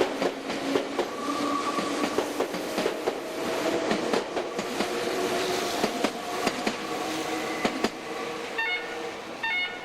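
Electric train running past, its wheels clacking over rail joints in a quick series of clicks over a steady rumble with ringing tones. Two short, high ringing tones sound near the end.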